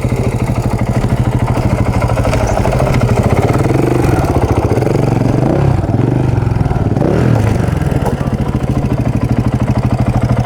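KTM adventure motorcycle engine idling close by with a steady fast pulse. From about four seconds in, engine revs rise and fall for a few seconds, then settle back.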